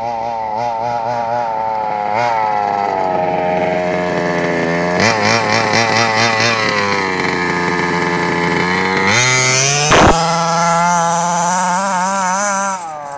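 Small two-stroke nitro engine of a Carson Comanche radio-controlled car with a custom four-pipe exhaust, running at high revs with its pitch rising and falling as the throttle changes. The pitch climbs sharply about nine seconds in and holds high, then the level drops off near the end.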